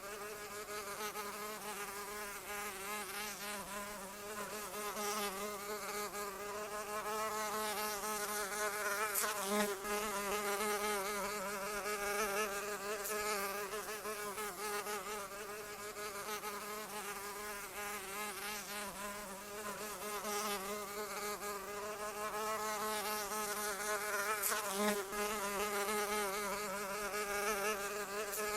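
A flying insect buzzing continuously, its pitch wavering as it flies, growing louder and softer in slow swells.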